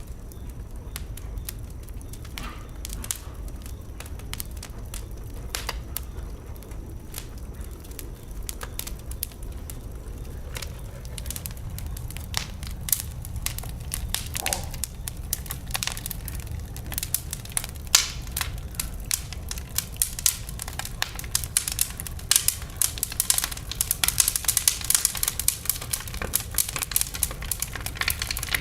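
Wood fire burning in a fireplace, crackling and popping over a low rumble; the crackles grow busier and louder in the second half, with one sharp pop about eighteen seconds in.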